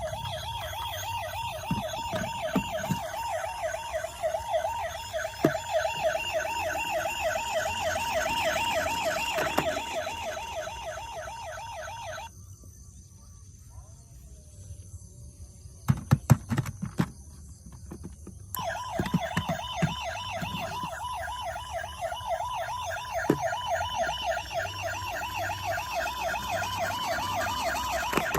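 Toy emergency vehicle's electronic siren, a fast warbling wail that sounds for about twelve seconds and stops. After a pause of about six seconds with a few sharp knocks, it starts again.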